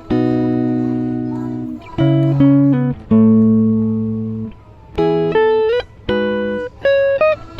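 Background music: a plucked guitar playing a slow line of single notes and chords, each ringing and fading, with a few notes sliding in pitch.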